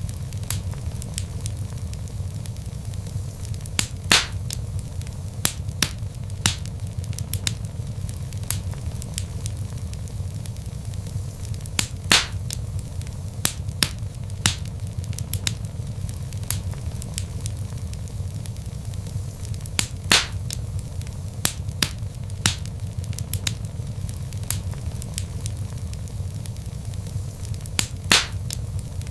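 Log fire crackling, with frequent sharp snaps and pops over a steady low rumble; a louder pop stands out about every eight seconds.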